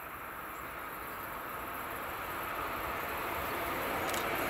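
ÖBB class 1293 Vectron electric locomotive hauling a freight train, approaching: the steady running noise of the train grows louder as it nears.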